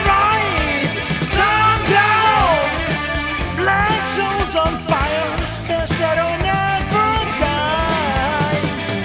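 Late-1970s rock band music: a lead electric guitar plays bending, sliding melody lines with vibrato over bass and drums.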